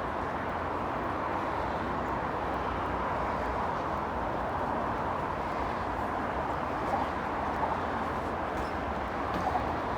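Steady rush of road traffic, an even noise without distinct engines or horns standing out.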